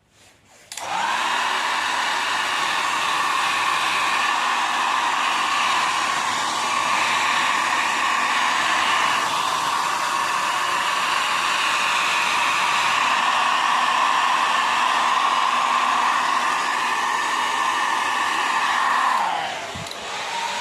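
Handheld hair dryer switched on about a second in, running steadily with a whine while blowing a freshly washed bicycle dry. It is switched off near the end, and its pitch falls as it winds down.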